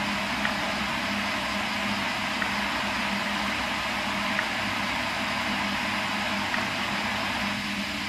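Steady machine hum with an even hiss, unchanging throughout, with a few faint soft ticks spread through it.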